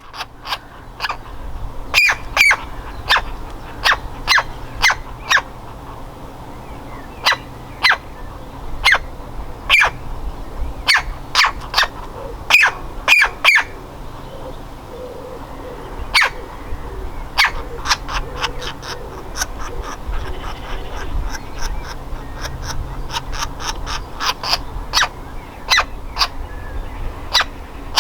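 Woodpecker nestling calling from its nest hole: loud, short, sharp calls repeated at irregular intervals, coming faster for a stretch near the end.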